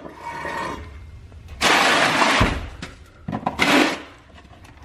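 Metal tools and parts being handled: a loud, dense clatter for about a second starting near the middle, ending in a low knock, then a few sharp knocks.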